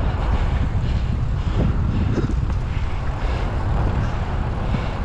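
Steady wind rumble on the microphone of a moving bicycle, low and gusting, with no clear events above it.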